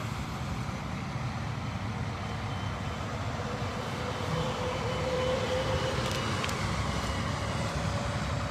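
Interstate highway traffic passing: a steady rush of vehicles and tyres, with a faint hum from a passing vehicle coming in about halfway through.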